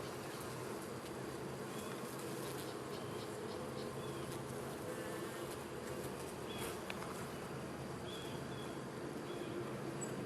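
Honey bees buzzing steadily around an opened hive during an inspection: a dense, even hum of a whole colony.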